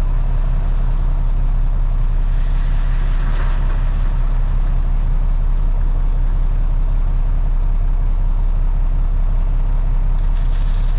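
Freightliner FLD dump truck's diesel engine idling steadily, heard from inside the cab, with a faint brief rush of higher noise about two to four seconds in.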